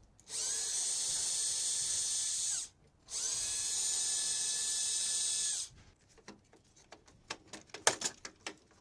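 Power drill running in two bursts of about two and a half seconds each, spinning up and winding down each time, followed by light clicks and knocks of metal parts being handled.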